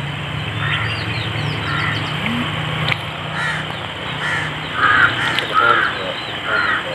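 A bird cawing repeatedly: short, harsh calls, about eight of them, coming every half second to a second. Fainter high chirps sound in the first half, over a low steady hum.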